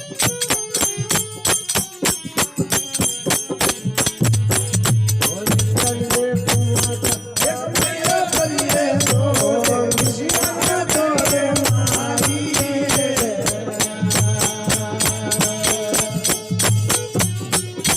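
Marwari desi bhajan music: fast steady jingling percussion, with a low drum beat joining about four seconds in and a wavering melody line through the middle.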